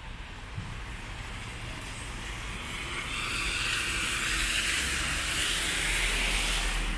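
Wet-street ambience in the rain: a steady hiss that grows louder about three seconds in and falls away near the end, over a low rumble.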